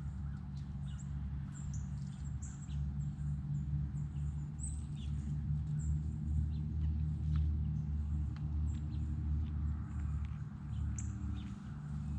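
Small birds chirping, short high calls scattered throughout, with a few sharp clicks, over a steady low hum.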